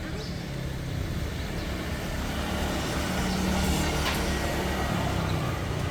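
A motor vehicle's engine hum, swelling to its loudest about three to four seconds in and then easing off, as a vehicle goes past.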